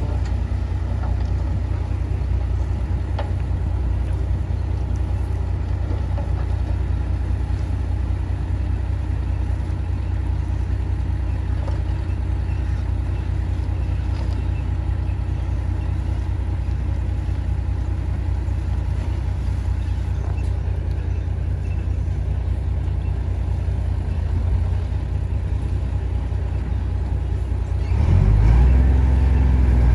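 Heavy diesel engine of earthmoving machinery running steadily under load. Near the end it grows louder and rises in pitch, as if revved up.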